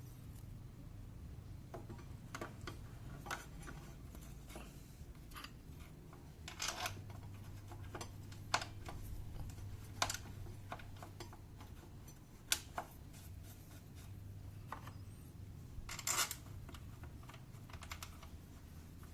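Irregular light clicks and taps of metal tools and scooter rear-brake parts being handled, with a few sharper clicks and a short rattle of them near the end, over a steady low hum.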